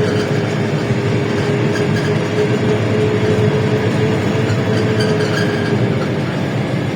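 LiAZ-677M city bus under way: steady running and road noise with a steady whine that fades near the end.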